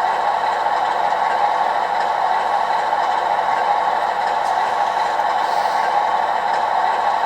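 OO-scale model locomotive running, a steady unbroken mechanical sound.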